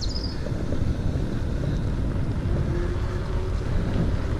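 Wind buffeting the microphone while riding a bicycle: a steady low rumble.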